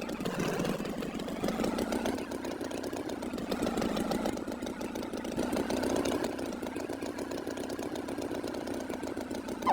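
Tractor engine idling steadily, with an even rough running note. Right at the end comes a quick, loud whistle-like sweep that drops and rises again in pitch.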